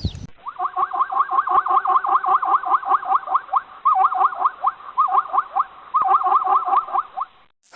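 An animal's rapid series of short, high chirping calls, about six a second, with a few brief breaks.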